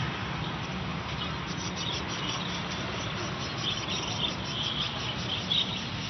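Small cage birds chirping and twittering in quick, high-pitched runs that grow busier after the first second or so, over a steady low hum.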